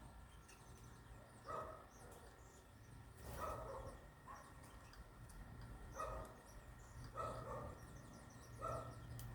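A dog barking repeatedly, about eight short barks a second or so apart, with faint high bird chirps between them.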